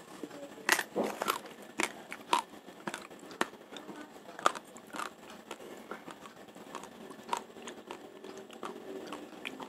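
A mouthful of raw Rojolele rice crunching between the teeth as it is chewed: sharp cracks close together in the first few seconds, then sparser and fainter.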